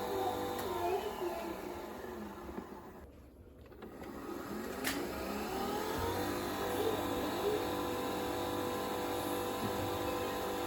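Nespresso coffee machine running a brew cycle: its motor whine winds down and drops away about three seconds in, a click follows, then the whine spins back up and holds steady.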